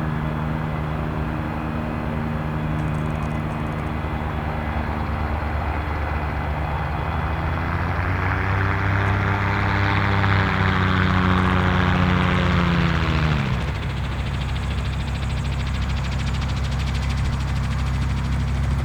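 Light propeller aircraft going past on the runway after landing. Its engine note swells for several seconds, then drops in pitch and falls away about thirteen seconds in, over a steady low rumble.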